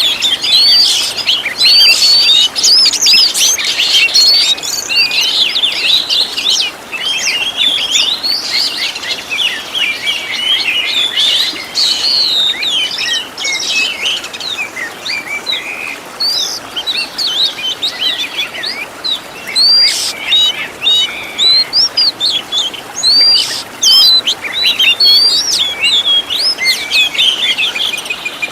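Songbird song in rapid, dense chirps, whistles and short trills, each phrase sweeping quickly up and down in pitch. It plays as a continuous stream, thinning slightly in the middle. This is a caged-bird training recording of varied fill-in songs ('isian') meant for an oriental magpie-robin to copy.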